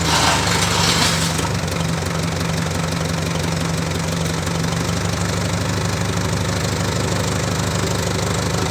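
Moshito 25 kVA water-cooled diesel generator's engine running steadily, with a hissing, rattling high-pitched noise over it that dies away after the first second or so.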